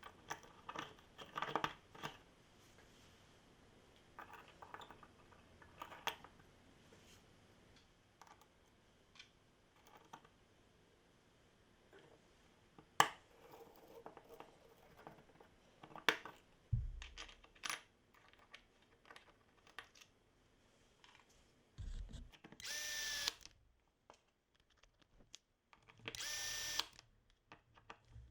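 Small parts clicking and knocking as they are handled, then a Milwaukee M18 2604 cordless hammer drill's motor running in two short bursts of about a second and a half each near the end.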